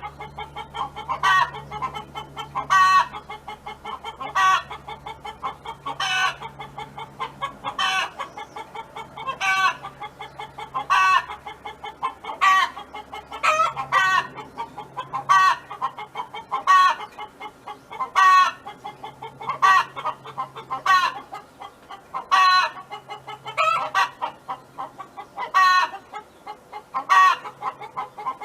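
Domestic hen clucking over and over, a loud call about every second and a half with softer clucks in between.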